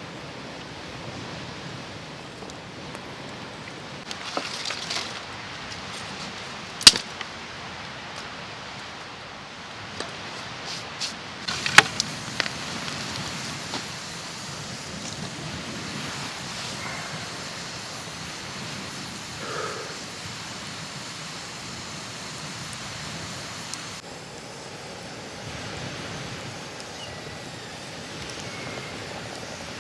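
Campfire crackling in a fire pit: a steady hiss with a few sharp pops, the loudest about seven and twelve seconds in.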